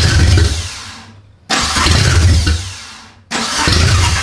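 Suzuki Sierra's 1.3 L carburetted four-cylinder engine firing up and dying three times in a row, each burst starting abruptly and fading out: it is starving, which the crew takes for running out of fuel.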